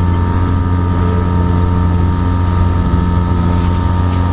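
A Pearson Ensign sailboat's motor running steadily under way: a constant, even drone.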